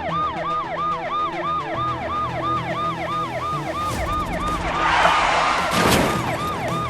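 Electronic siren wailing in quick yelps, about three rises and falls a second, over background music. About four seconds in a loud rushing noise builds up and ends in a sharp bang near six seconds, like a vehicle impact.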